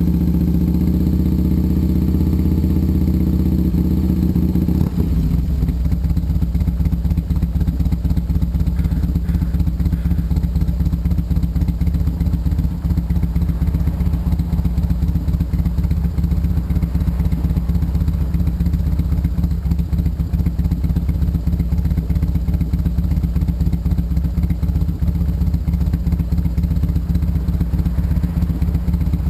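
1991 Harley-Davidson Sportster 883's air-cooled Evolution V-twin running through a custom two-into-one exhaust made from a Bassani Road Rage pipe, on a cold start. It holds a raised, smooth engine speed, then about five seconds in drops to a slower, loping idle with even pulses.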